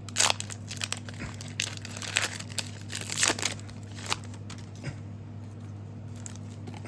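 A trading-card booster pack wrapper being torn open and crinkled in quick bursts for about four seconds, then only a steady low hum.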